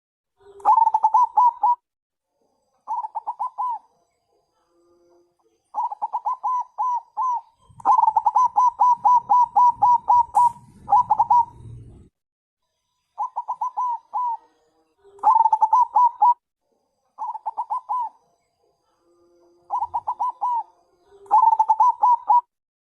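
Zebra dove (perkutut bangkok) cooing: phrases of rapid, evenly repeated notes, each phrase about a second long, coming again and again with short pauses between. A faint low rumble sits under the calls in the middle.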